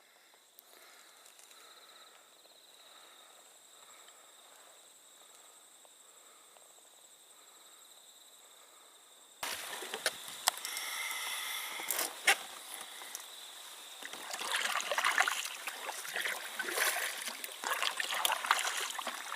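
Faint insects calling, a steady high trill with a soft pulsing chirp. About nine seconds in this cuts off abruptly to water splashing and sloshing around a canoe being paddled, with a few sharp knocks.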